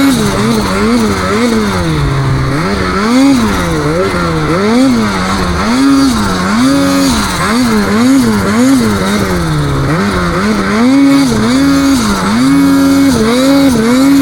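Snowmobile engine revving up and down over and over as the throttle is worked on and off, its pitch climbing and dropping about once a second, with short held stretches at high revs.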